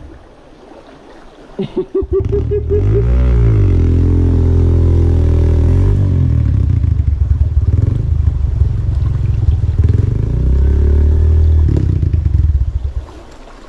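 Motorcycle engine catching with a few sputtering firings about two seconds in, revving up and back down, then running with uneven revs before cutting out near the end.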